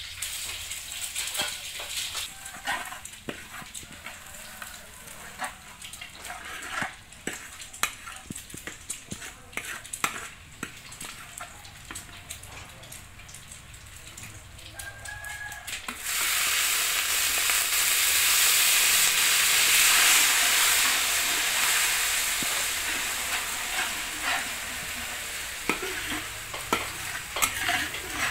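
Minced garlic sizzling in hot oil in a metal wok, with a metal spatula scraping and tapping against the wok as it is stirred. About halfway through the sizzle suddenly gets much louder, then slowly eases.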